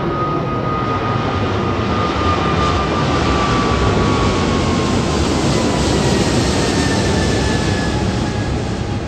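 Jet airliner's engines passing by, loud and steady, with a high whine that slowly drops in pitch as the aircraft goes past.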